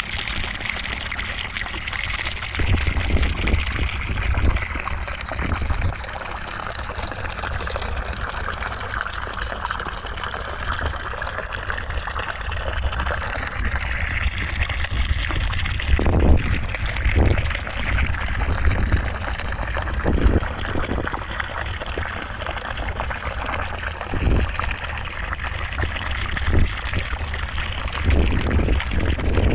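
Steady rushing white noise, much like running water, with irregular faint low rumbles underneath.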